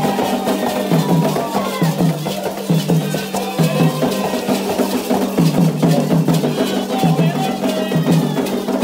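Candomblé ritual music: hand drums beating a steady, repeating rhythm with sharp struck percussion over it, and voices singing.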